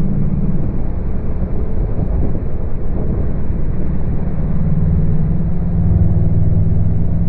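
Chevrolet Camaro V8 engine running under throttle, heard from inside the cabin along with road and wind noise, as the car accelerates past 70 mph. The engine note is unsteady at first and settles into a stronger, steady drone about two-thirds of the way through.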